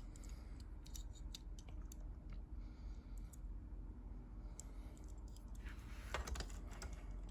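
Faint, scattered light clicks and rustling of a packaged diecast toy car being handled, with a denser cluster of clicks about six seconds in, over a low steady hum.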